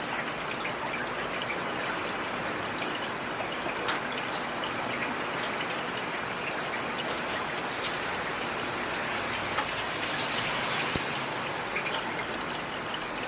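Steady rain falling, with individual drops clicking now and then over the even patter.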